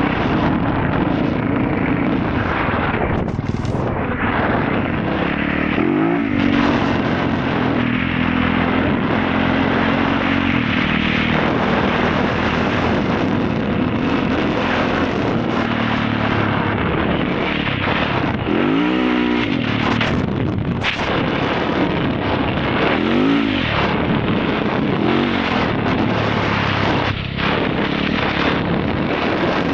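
Motorcycle engine running under way, its pitch sweeping up and down a few times as the revs change, over a steady noisy rush.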